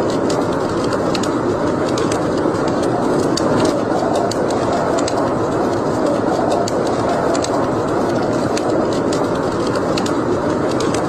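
Wood fire burning in a fireplace: a steady low noise of the flames, with sparse, irregular sharp crackles and pops throughout.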